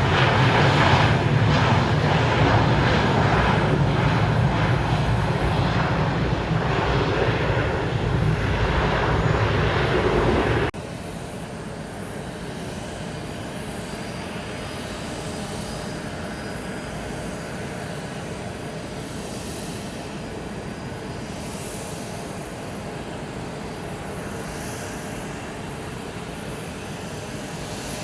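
Airbus A320 jet engines running loud. About a third of the way in the sound cuts abruptly to a quieter, steady jet engine noise with a faint whine, from an Airbus A330-200.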